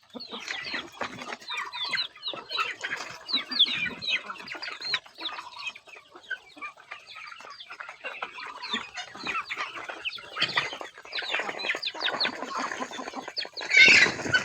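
Chickens clucking and calling, many short overlapping calls, with a louder, harsher squawk near the end.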